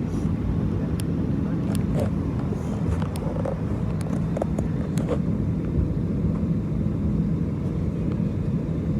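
Steady airliner cabin noise: the jet engines running, heard from inside the cabin as an even low hum, with a few faint clicks and knocks in the first half.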